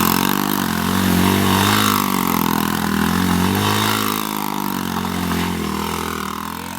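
A 90cc dirt bike engine revving up and down over and over, its pitch rising and falling about every second or so as the bike is ridden in donuts, fading away near the end.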